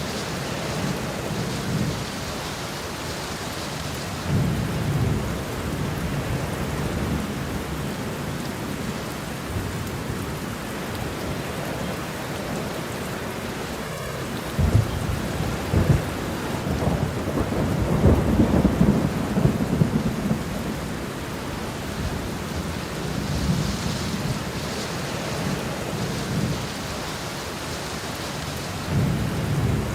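Steady rain falling, with rolls of distant thunder rumbling low beneath it. The longest and loudest rumble builds through the middle of the stretch, and shorter ones come a few seconds in and near the end.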